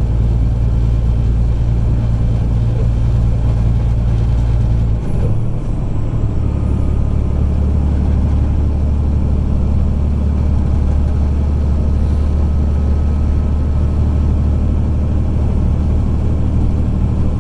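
Semi truck's diesel engine running under load, heard from inside the cab. About five seconds in there is a short break in the sound, like a gear change, and afterwards the engine runs on at a lower, steady pitch. A faint high whine falls away during the break and climbs back.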